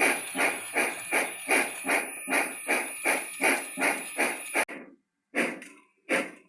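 Steam locomotive exhaust chuffing in a steady beat of about two and a half chuffs a second, with a faint steady high tone over it. It breaks off suddenly, and a few slower, well-spaced chuffs follow.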